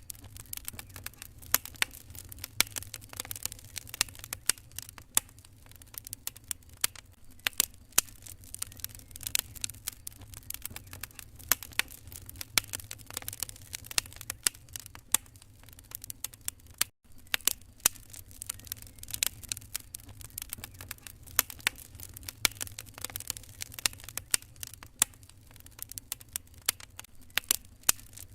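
Wood fire crackling in a fireplace: a steady run of irregular sharp snaps and pops over a low steady hum, cutting out for a split second about two-thirds of the way through.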